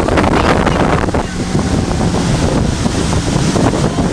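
Wind buffeting the microphone on a motorboat running at speed, over the steady noise of the boat's engine and water rushing past the hull.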